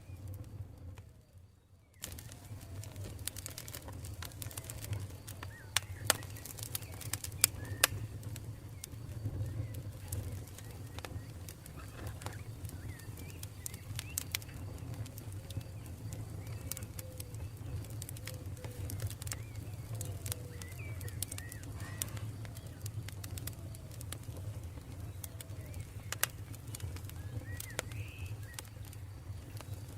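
Campfire crackling, with scattered sharp pops over a steady low rumble of the burning wood, and birds calling now and then in the background. The sound drops away briefly about a second in, then resumes.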